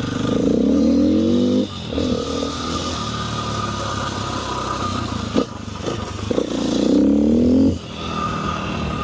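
KTM 450 single-cylinder four-stroke dirt bike engine revving up under acceleration, dropping back to a lower, steadier run after a couple of seconds, then revving up hard again about seven seconds in.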